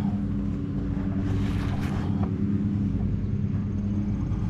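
A steady low mechanical hum runs throughout, like a motor or engine running, with a brief rustle about one and a half seconds in.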